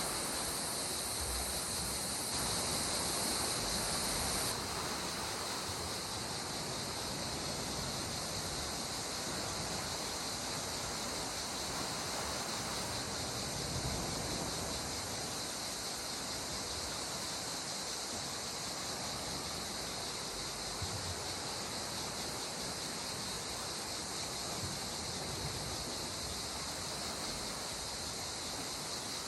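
Calm sea water washing steadily, with a continuous high-pitched insect chorus over it that is a little louder for a couple of seconds near the start.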